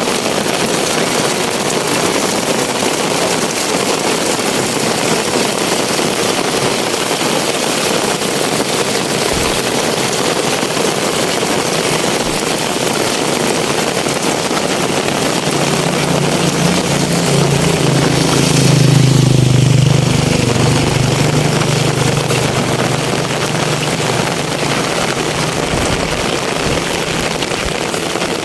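Heavy rain pouring down as a steady hiss. About halfway through, a motor vehicle's engine comes near, is loudest a few seconds later, and fades away again.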